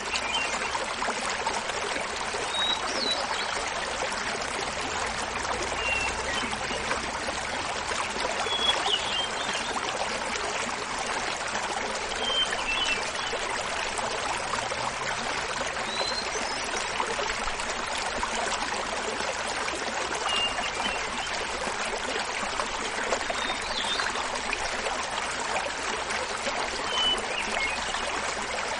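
Small mountain waterfall splashing steadily, with a hermit thrush singing short, flute-like phrases about every three to four seconds.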